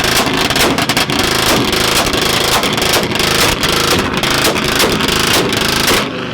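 Car engine held on a two-step launch limiter, firing a rapid, irregular string of loud popping bangs from the exhaust that cuts off abruptly near the end.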